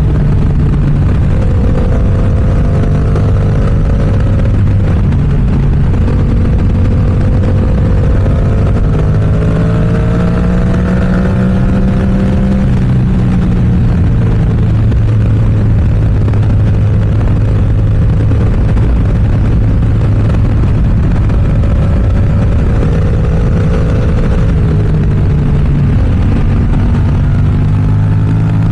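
Yamaha R7's parallel-twin engine breathing through an M4 aftermarket exhaust while riding, its note rising and falling gently with the throttle, under a constant rush of wind noise.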